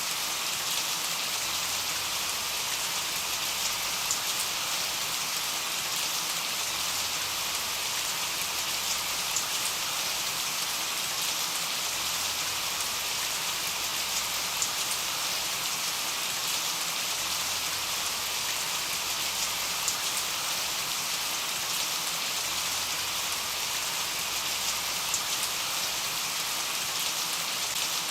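Steady rain falling, a constant even hiss with many small drop ticks and no thunder.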